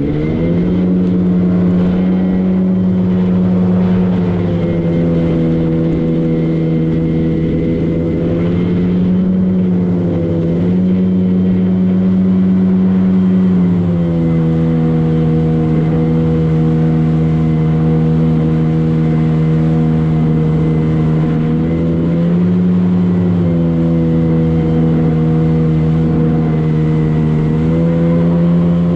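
Motorboat engine running under way at a steady speed, its pitch dipping and rising slightly a few times as the throttle or load changes.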